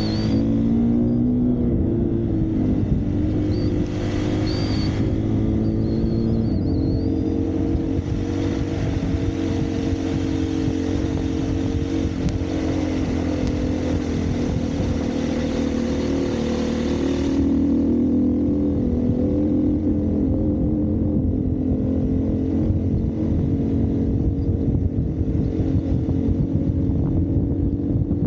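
Single-cylinder four-stroke dirt bike engine running under a rider on a trail, its pitch rising and falling a little with small throttle changes, over a rough low rumble.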